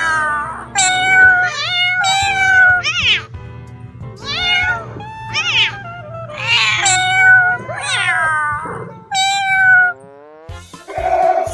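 A cat meowing over and over, loud drawn-out meows, many falling in pitch, over background music. Near the end the meows stop and a different call begins.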